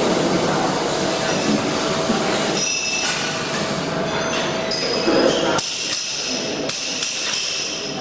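Welding workshop noise: a steady hiss and hum, then sharp metal knocks and ringing clinks after about two and a half seconds.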